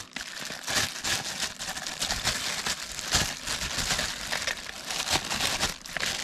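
Plastic packaging crinkling and rustling irregularly as it is handled and pulled off parts.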